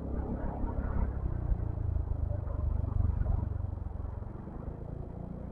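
Low engine rumble of slow-moving traffic and a motor scooter running at low speed in a jam. It swells from about one to three and a half seconds in, then eases.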